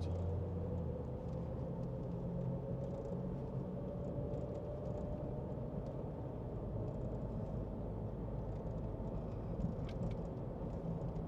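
Road noise of a car driving, heard from inside the cabin: a steady low engine and tyre rumble with a faint hum slowly rising in pitch.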